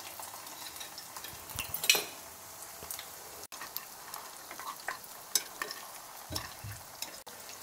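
Soybean kababs shallow-frying in hot oil in a kadhai, with a soft sizzle. Scattered clicks and scrapes come from a metal fork and spatula against the pan as the kababs are turned over, the loudest about two seconds in.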